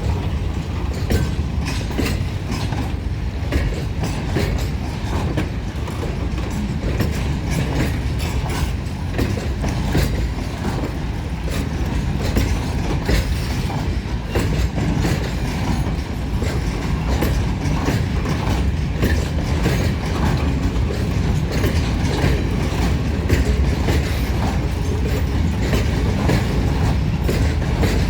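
A train running past on the rails: a steady low rumble with many quick clicks and knocks from the wheels over the track.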